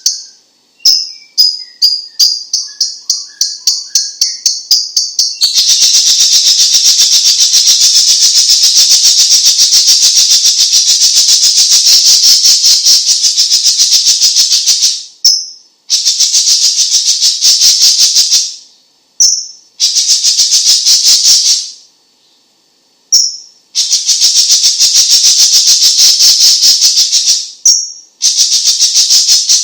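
Leafbird (cucak ijo cina) singing: a high-pitched song of very fast rattling trills, starting with short chirps and then running in long bursts broken by brief pauses.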